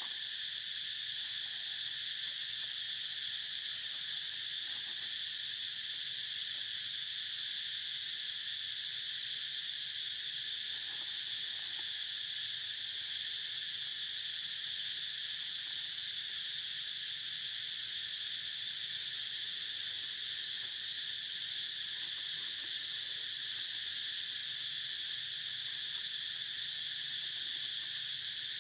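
Steady, unbroken insect chorus: a shrill, even drone that holds without a break.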